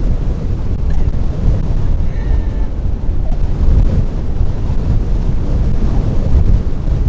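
Gale-force wind buffeting the camera microphone: a loud, continuous, gusty low rumble.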